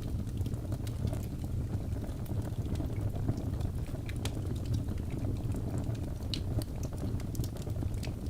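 Logs burning in a fireplace: a steady low rumble of flame with irregular sharp crackles and pops from the burning wood.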